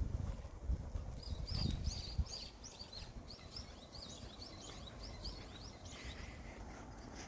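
A songbird singing a quick run of repeated high chirps for several seconds, starting about a second in, over a faint outdoor hush. There are low thuds, like footfalls, in the first two seconds.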